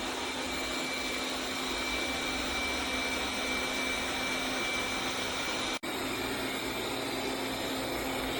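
Tikom L8000 Pro robot vacuum cleaner running steadily: a constant suction noise with a thin high whine, briefly cut off about six seconds in.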